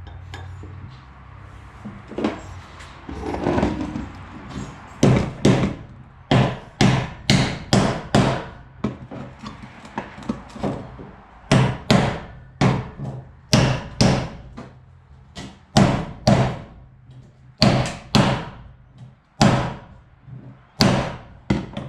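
Hammer driving a roll pin into a steel attachment pin: a run of sharp blows, about one to two a second in short groups with brief pauses, starting about five seconds in.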